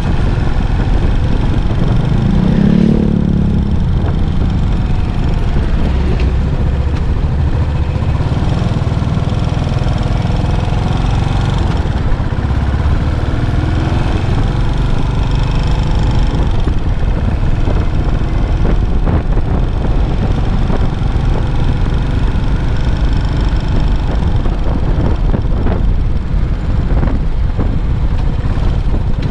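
Yamaha SR400 air-cooled single-cylinder engine running through its stock muffler while being ridden in traffic, its pitch rising and falling with the throttle, over steady road and wind noise.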